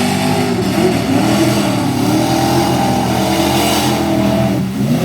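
Mud bog truck engine revving hard, its pitch rising and falling over and over, with a short drop just before the end.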